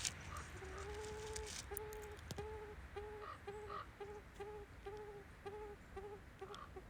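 A hen grouse cooing faintly: a series of low, even-pitched coos, the first drawn out for about a second, then shorter notes about two a second that get shorter toward the end.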